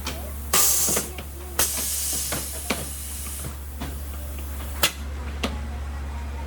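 Two bursts of hissing like a jet of air or gas, a short one about half a second in and a longer one lasting about two seconds, with sharp clicks and knocks of metal work and a steady low hum throughout.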